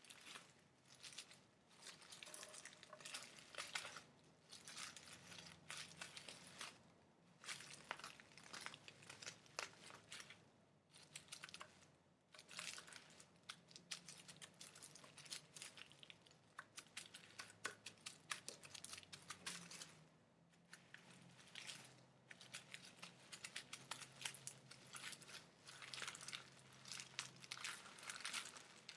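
Close-up crinkling and crackling from hands working a crinkly material: dense runs of small crackles and clicks in bursts of a second or two, with short pauses between them.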